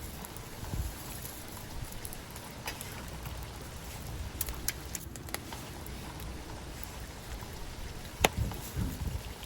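Wood fire burning with a steady crackle, broken by scattered sharp pops and one loud snap near the end.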